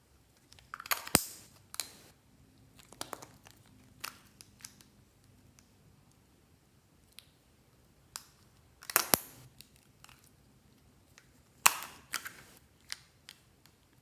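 Glossy slime being squeezed and kneaded by hand, giving bursts of sharp wet clicks and pops as air pockets burst, in clusters about a second in, near nine seconds and near twelve seconds, with quiet between.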